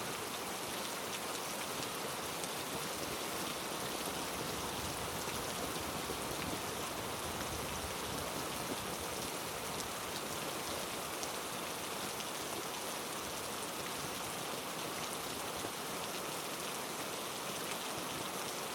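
Heavy rain falling steadily in a rainforest: a dense, even hiss with scattered drop ticks.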